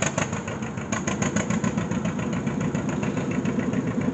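An engine running at a steady speed, its firing pulses an even beat of about ten a second.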